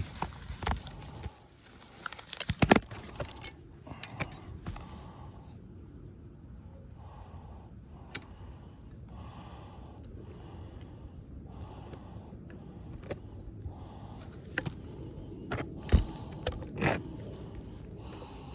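Handling noise from roofing work on shingles: scattered sharp clicks and knocks, with a run of evenly repeated soft noise pulses, a little under one a second, through the middle.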